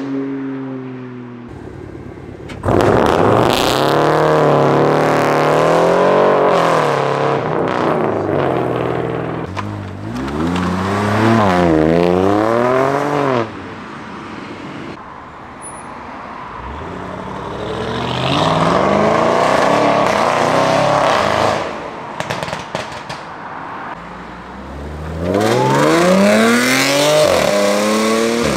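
Performance car engines accelerating hard. The pitch climbs and then falls back with each gear change, over several separate runs that start and stop abruptly.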